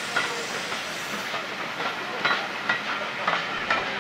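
Passenger coaches of a steam-hauled train rolling past, the wheels clicking irregularly over the rail joints.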